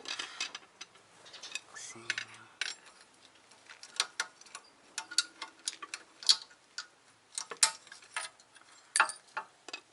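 Irregular metallic clicks and clinks of steel parking brake parts as the lower spring of a Mercedes W221 rear parking brake shoe is worked off.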